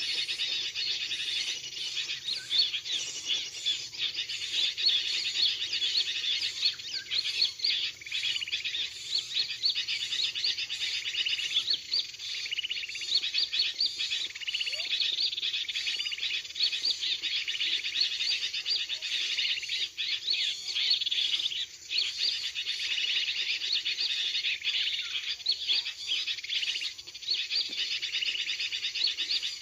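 Dense, continuous chirping and twittering of many small birds. It is the lure call used to trap birds: a recording of a busy bulbul flock mixed with small-bird calls.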